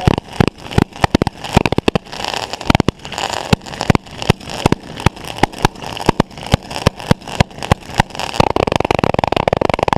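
Fireworks going off close by: a rapid, irregular string of bangs and crackles that becomes a dense crackling run near the end.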